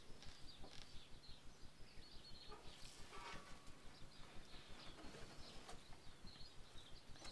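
Near silence: faint room tone with soft, evenly repeated low ticks and a few faint brief sounds.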